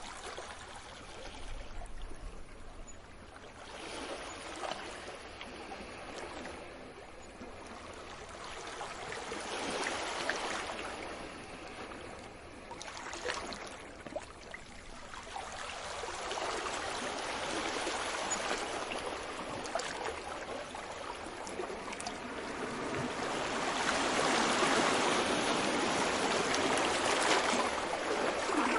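Ocean waves washing in, a rushing surf that swells and fades several times in a slow, uneven rhythm, loudest near the end.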